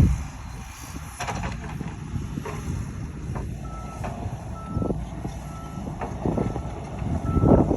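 Excavator's diesel engine running with scattered metal knocks, and from about halfway in a travel alarm beeping on one steady pitch about once a second.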